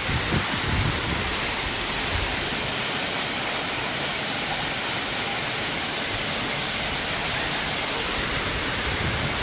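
A waterfall rushing steadily, a constant dense hiss of falling water.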